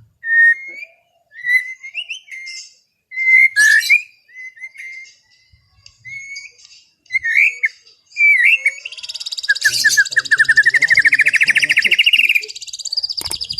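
White-rumped shama (murai batu) singing: a string of short whistled phrases, then from about nine seconds a long, fast trill that rises in pitch.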